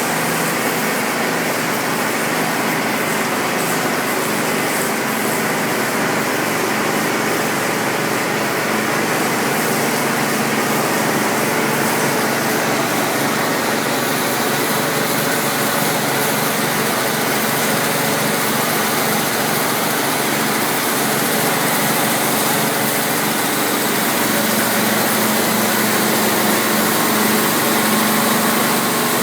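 Electric log-rounding machine running steadily, a dense mechanical din with a low hum under it, growing slightly louder near the end.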